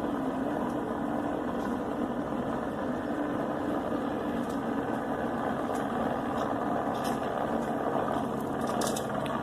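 Steady engine drone running evenly throughout, with a low hum and no change in pitch.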